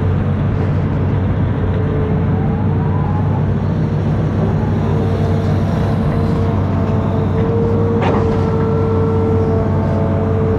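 Amphibious excavator's diesel engine running steadily with a low drone, a higher steady whine growing stronger about halfway through, and a single sharp knock near the end.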